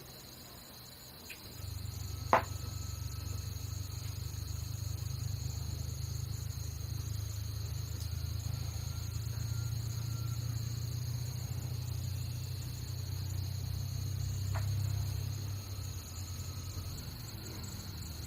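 Insects trilling steadily and high-pitched, under a louder low rumble that starts about a second and a half in and fades near the end. There is a sharp click about two seconds in and a fainter one later.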